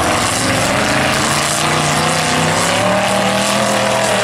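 Pickup truck engines running hard and revving in a demolition derby, loud and steady, with the engine pitch drifting slowly up and down.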